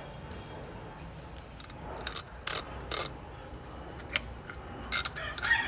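Irregular sharp clicks and short ratcheting scrapes of hard plastic parts being handled and twisted, as a feeder port is fitted into a plastic bucket.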